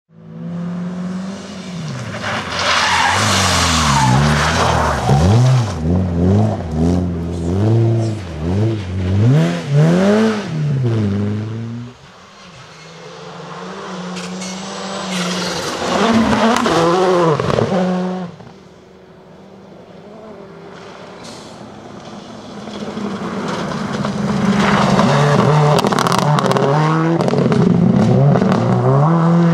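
Rally cars at speed on a stage, engines revving hard and dropping back again and again through gear changes and lifts, with the scrabble of sliding tyres. The cars come past in turn: one loud run over the first twelve seconds, another passing about sixteen seconds in, and a third building up and staying loud over the last several seconds.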